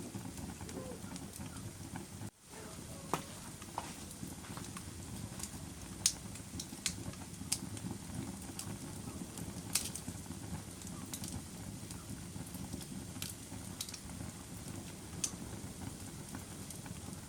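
Fire burning in a fireplace: a steady low rumble of flames with scattered sharp crackles and pops, the loudest about six and ten seconds in. The sound cuts out for an instant about two seconds in.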